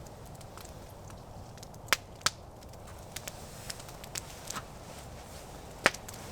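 Campfire crackling, with irregular sharp pops from the burning wood over a low steady hiss; the loudest pops come about two seconds in and near the end.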